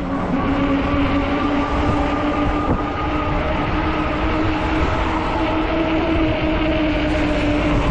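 Ecotric 48 V fat-tire e-bike's rear hub motor whining steadily under power, one held tone that drifts only slightly, over a heavy rumble of wind and tyre noise.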